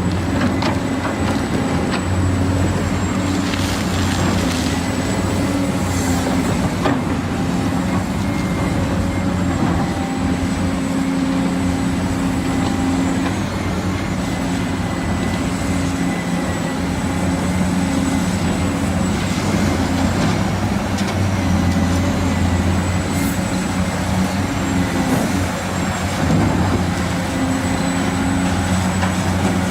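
Small electric motors and gearboxes of remote-control toy construction vehicles (excavator and dump truck) whirring steadily, with a thin high whine over a low hum and a few short clicks.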